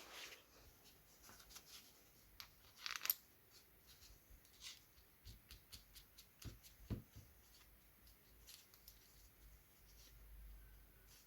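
Faint handling sounds of hand work on a workbench: scattered light clicks and scrapes, a short scratch about three seconds in, and two soft knocks around seven seconds.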